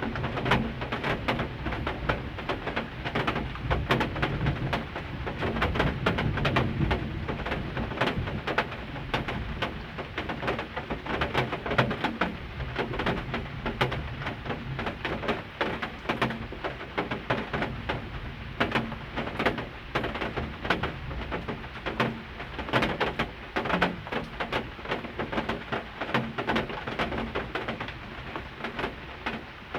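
Heavy rain falling, a dense continuous patter of drops striking close by, over a steady low rumble.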